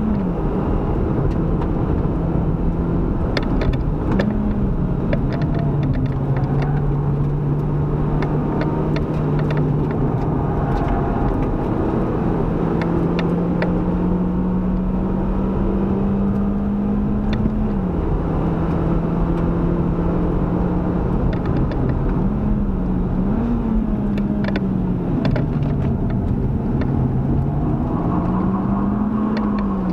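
Proton Inspira's four-cylinder engine under load on a track lap, held at mostly steady revs for several seconds at a time. The pitch drops in steps at shifts and swings briefly up and down around corners, over steady tyre and wind noise with light scattered rattles.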